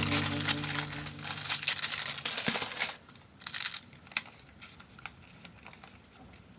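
Crinkling and rustling of paper and packaging being handled, dense for about the first three seconds, then softer scattered crinkles and taps.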